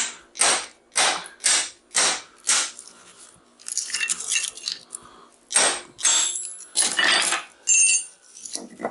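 Hammer striking a steel transformer core, about two blows a second at first, then a few more irregular blows, with a brief metallic ring near the end.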